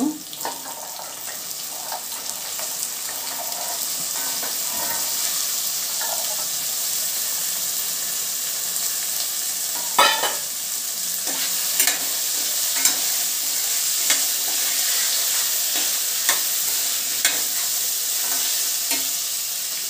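Oil sizzling steadily in a stainless steel pressure cooker as soaked chickpeas fry with an onion-tomato masala. From about halfway through, a metal spatula stirring gives a few sharp scrapes and knocks against the pot.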